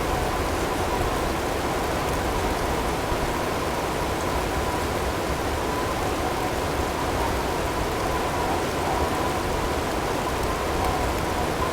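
Blizzard ambience: a steady hiss of wind-driven snow and hail pattering, with a faint steady tone mixed in underneath.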